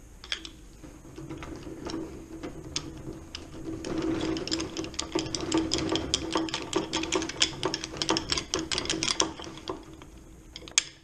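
Rapid light metal-on-metal clicking, about eight a second for some five seconds in the middle, with scattered single clicks before and after. This is work on the shaft of a stripped-down VW 085 gearbox as a gear and its synchro are worked off it a bit at a time from each side.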